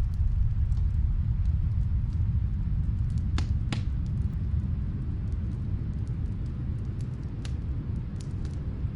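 Steady low rumble of snowstorm wind, with the scattered faint crackles of a wood fire in a fireplace and two sharper pops about three and a half seconds in.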